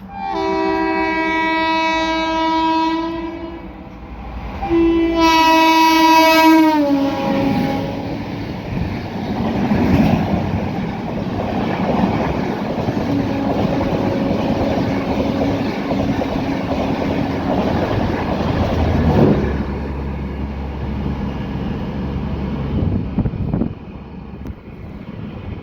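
WAP-4 electric locomotive sounding its horn in two long blasts, the second dropping in pitch as the locomotive passes. After it, the train's coaches rumble and clatter by on the rails, with the sound falling away near the end.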